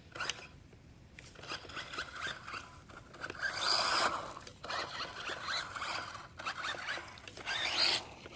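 Electric motor of a radio-controlled toy truck whirring in several short bursts as it is driven. The loudest burst comes about four seconds in, with another near the end.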